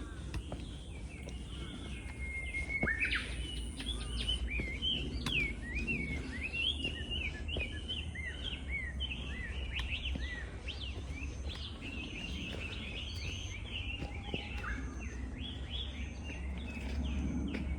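Small birds chirping and singing in a busy chorus of short, quick calls, over a steady low rumble.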